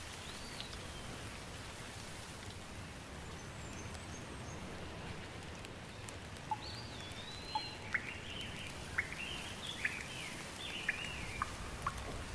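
Steady rain falling, with a bird chirping in short rising and falling calls from about halfway on.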